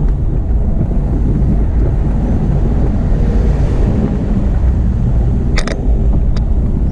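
Wind buffeting the microphone of a camera riding along on a moving bicycle, with a steady low road rumble underneath. A few sharp clicks come near the end.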